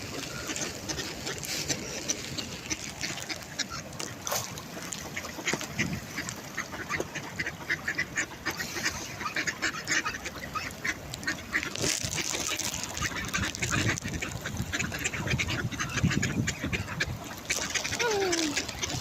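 Ducks quacking and chattering over one another in a dense, continuous run of short calls.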